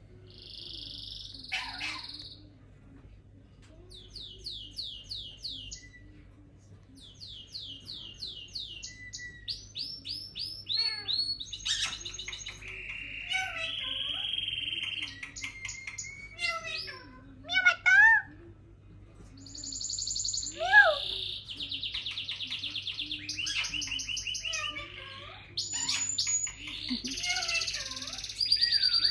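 Pet parrot calling and mimicking sounds: a varied string of chirps, rapid rattling trills and whistles, some sweeping sharply upward, with two loud squawks a little past the middle.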